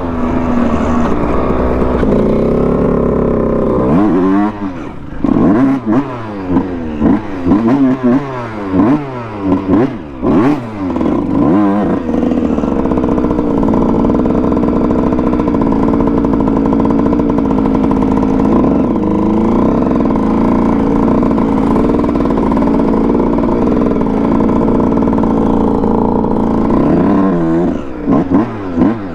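Dirt bike engine revving up and down in quick throttle blips for several seconds, then running at a steady pitch while riding, with a few more revs near the end.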